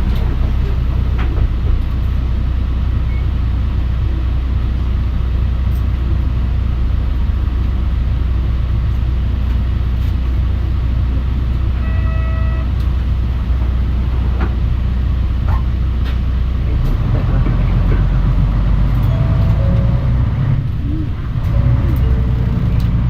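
Mitsubishi Fuso Aerostar city bus driving, heard from inside the passenger cabin: a steady low diesel engine and drivetrain hum. A brief electronic tone sounds about twelve seconds in.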